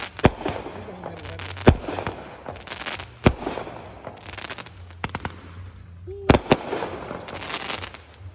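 Fireworks going off: sharp bangs a second or two apart, with a close pair of bangs near the end, over continuous crackling.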